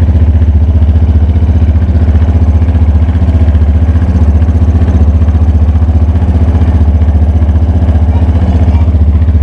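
Yamaha Fazer 250's single-cylinder engine idling steadily with an even pulsing beat, carrying the very strange engine noise the bike was brought in for.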